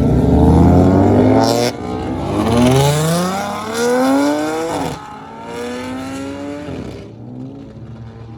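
A car accelerating hard with its engine revving up through the gears: the pitch climbs, drops sharply at a shift about two seconds in, climbs again and drops near five seconds, then fades as the car pulls away.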